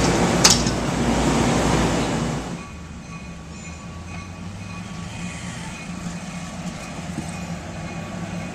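A passenger train's rail cars rolling past, loud and steady, with a brief sharp high squeal about half a second in. The noise falls away suddenly about two and a half seconds in as the train clears, leaving a quieter low rumble.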